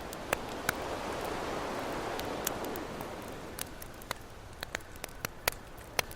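Campfire crackling with scattered sharp pops over the wash of an ocean wave, which swells in the first couple of seconds and then recedes.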